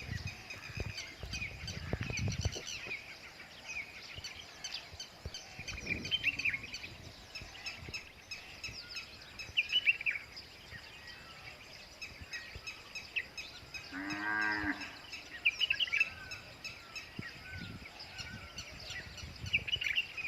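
Cattle mooing once, a single call about two-thirds of the way through, over steady chirping of small birds. Low thuds come in the first couple of seconds.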